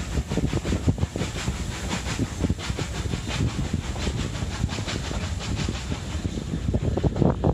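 Hunslet Austerity 0-6-0 saddle tank steam locomotive working hard under power, its exhaust chuffing in a quick, even rhythm of several beats a second over a low rumble of the moving train.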